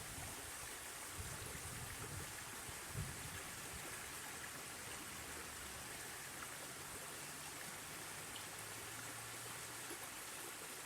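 Steady rushing of water with a brief low bump about three seconds in.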